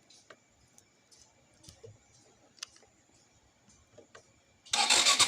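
A few faint clicks, then near the end the Suzuki Gixxer motorcycle's electric starter cranks and the engine starts, struggling because the battery is weak and sags to about 10 volts when cranking.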